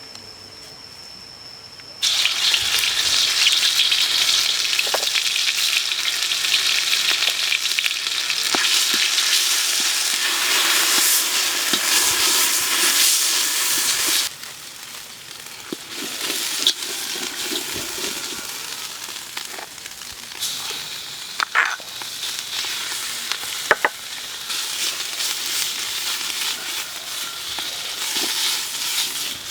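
Food hitting hot oil in a pan starts sizzling loudly about two seconds in. From about halfway the sizzle settles to a quieter frying, with occasional clicks of a utensil stirring.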